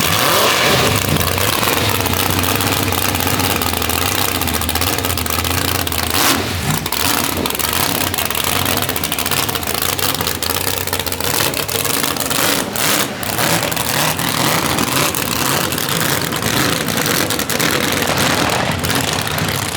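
Loud high-powered race car engine running, idling with changes in revs and a few sharp cracks.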